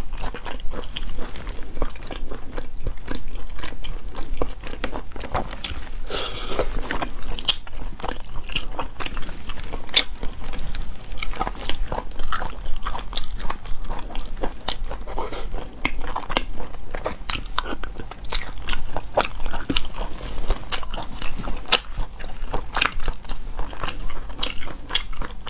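Close-miked eating of cat's eye snails in chili oil: steady wet chewing with many short, sharp clicks and crunches.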